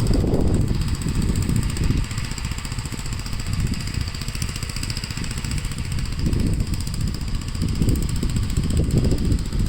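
Gravely L8 walk-behind tractor's single-cylinder engine running under load while plowing snow, its level rising and falling.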